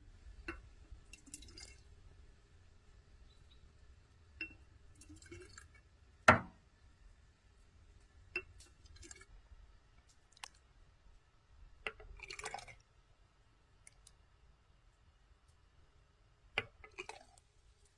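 Utensils and dishes clinking and knocking now and then, about seven sharp hits with the loudest about six seconds in, several followed by a brief scraping or rustling.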